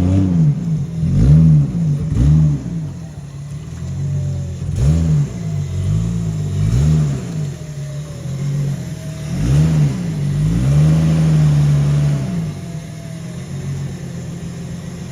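A car engine idling and being revved in about ten short throttle blips, each rising and falling back. Near the end it holds one longer rev, then settles back to a steady idle.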